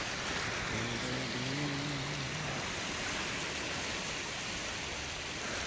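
Steady rushing water noise, with a low voice briefly humming a tune about a second in.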